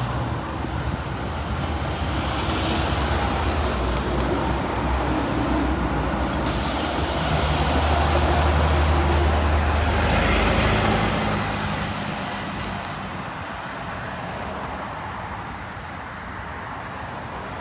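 Diesel school bus engine running as the bus drives past, growing louder to a peak about ten seconds in and then fading away. A sudden hiss of air starts about six and a half seconds in and lasts a couple of seconds.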